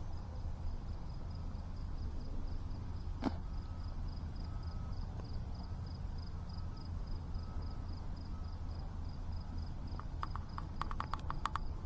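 Insects chirping in a faint, even pulsed rhythm over a steady low rumble, with a single sharp click about three seconds in and a quick run of clicks near the end.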